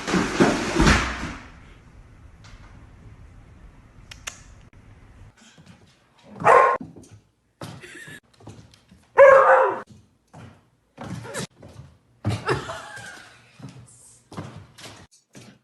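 A dog barking in a few separate short calls, with a noisy thud or crash at the start and scattered knocks in between.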